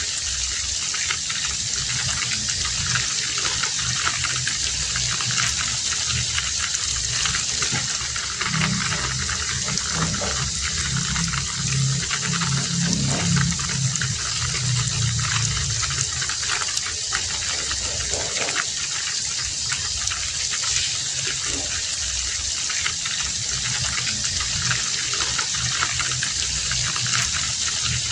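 Heavy rain falling steadily, a dense, even hiss of drops. A low rumble swells for several seconds in the middle.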